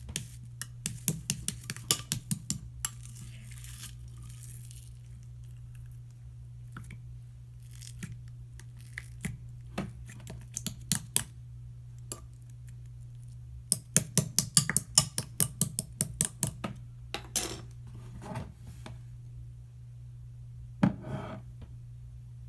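Small hard taps and clicks of marbling tools against a dish or container, coming in quick clusters near the start and again about two-thirds through, with a few short scraping sounds, over a steady low hum.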